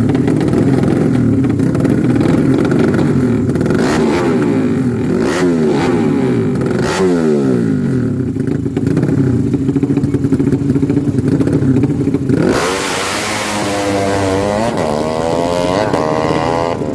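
Racing motorcycle engines being revved, their pitches sliding up and down and crossing one another. About twelve seconds in comes a sudden loud hiss, and an engine pulls away with its pitch climbing steadily.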